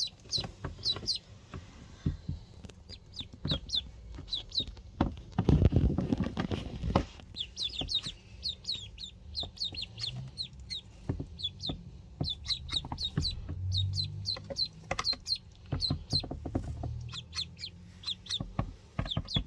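Ducklings peeping: many short, high, downward-sliding peeps in quick runs, mixed with scattered sharp taps. There is a louder low rustle and bump about six seconds in.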